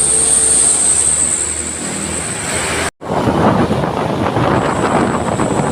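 Mitsubishi Canter truck running, with a steady high-pitched whine over the engine noise. The sound breaks off for an instant about three seconds in, then continues rougher and noisier, with the whine fainter.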